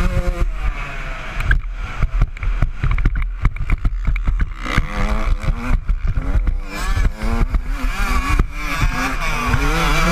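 Honda CR125 two-stroke single-cylinder motocross engine revving hard, rising and falling in pitch with the throttle. For a few seconds near the start it goes off throttle under a clatter of knocks and rattles, then climbs in revs again several times.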